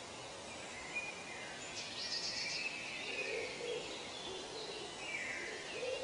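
Outdoor ambience: a few birds calling and chirping over a steady hiss, with a short, rapid high trill about two seconds in.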